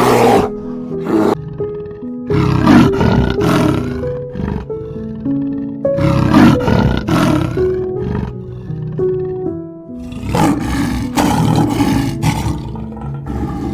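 Lion roaring, three long roars about four seconds apart, over background music.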